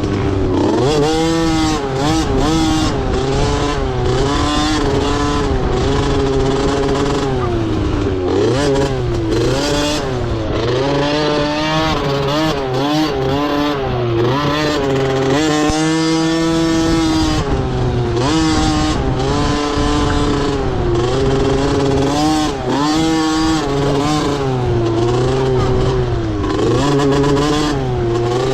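Motocross dirt bike engines revving, the pitch rising and falling over and over with the throttle.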